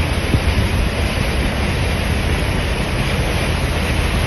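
Steady rushing noise of a heavy rainstorm, with a low rumble of wind on the microphone and one brief knock about half a second in.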